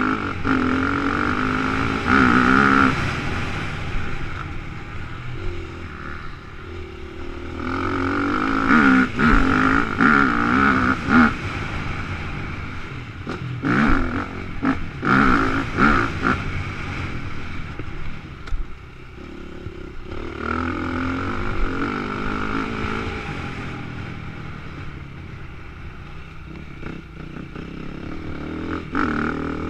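Motocross dirt bike engine revving hard and backing off in repeated surges, the pitch climbing and dropping with throttle and gear changes, heard from a helmet-mounted camera. Several sharp knocks come in the middle stretch.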